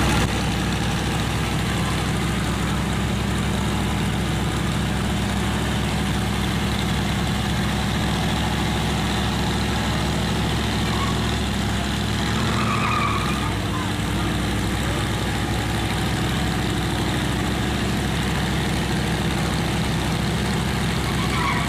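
Truck engine idling steadily, with an even low hum that does not change.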